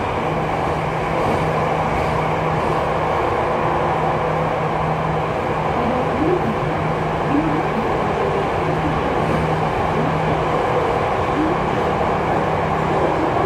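Jakarta MRT train running, heard from inside the carriage: a steady rumble and rushing noise with a low hum that drops out briefly every few seconds.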